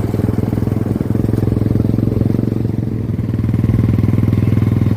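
Heavy diesel engine running steadily with an even low throb, slightly louder in the second half.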